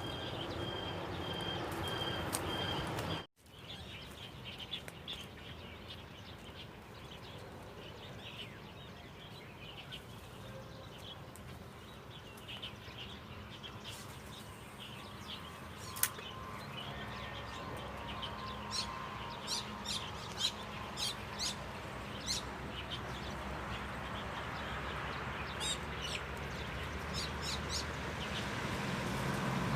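Outdoor background with birds chirping in short, high calls, more often in the second half; the sound cuts off abruptly for an instant a few seconds in.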